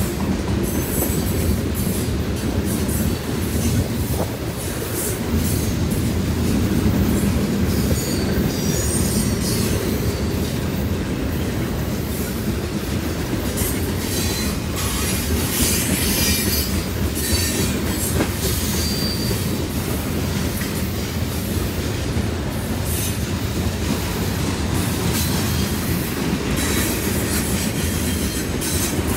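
Freight train of covered hoppers and open-top hoppers rolling steadily past on jointed track. A continuous rumble of steel wheels on rail, with clicking over the rail joints and short high wheel squeals now and then.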